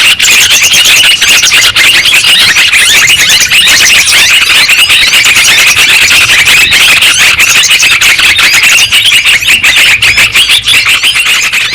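Yellow-vented bulbuls (trucukan) calling continuously: a loud, dense chatter of many quick, overlapping chirps, as on a bird-lure recording.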